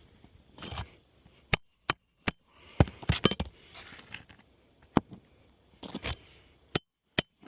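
Roofing nails being driven into a 3-tab asphalt shingle with sharp single strikes, about eight of them at uneven intervals. Softer scuffing of the shingles being handled comes in between.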